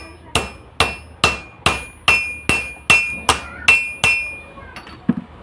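Hammer tapping on metal in a steady rhythm of about ten blows, a little over two a second. Each blow rings briefly. The tapping stops about four seconds in.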